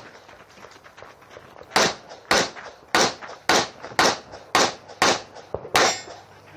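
9mm Glock 34 pistol fired in a string of eight shots, about two a second, starting a little under two seconds in after a short pause.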